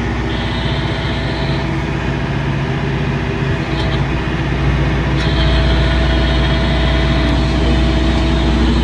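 Tractor engine running steadily, heard from inside the cab while the tractor backs up. A high whine cuts out for a few seconds and returns about five seconds in, as the engine gets a little louder.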